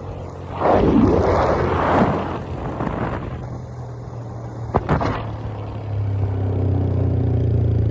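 A vehicle rushes past about a second in, a sharp click follows near the five-second mark, and from about six seconds a motorcycle engine runs with a steady hum that grows louder.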